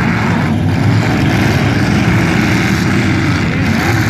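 Several demolition derby cars' engines running loudly together in a steady, dense drone.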